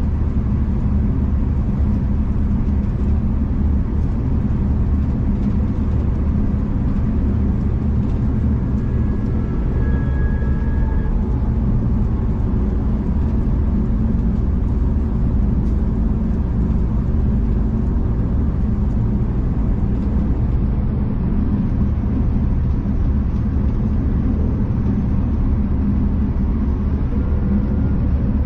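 Steady low rumble of a moving V/Line passenger train heard from inside the carriage, with a faint brief high tone about ten seconds in.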